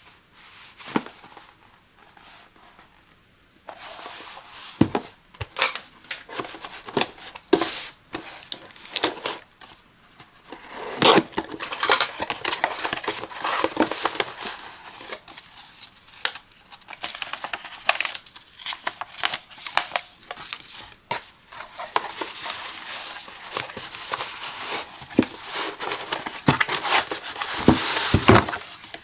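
Packaging of a kettle being handled and opened: irregular crinkling and tearing with sharp clicks and knocks, quiet for the first few seconds.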